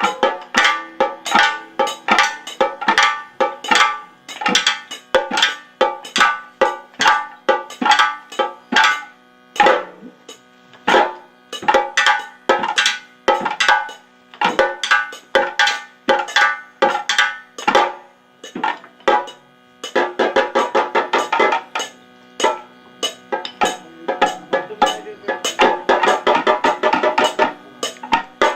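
Kathakali percussion music: quick drum strokes over steady ringing tones, the strokes crowding into a dense, faster run about twenty seconds in.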